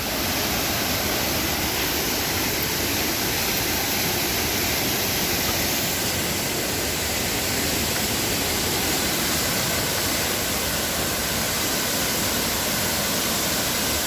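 Waterfall's heavy falling water: a steady, even rush that does not change.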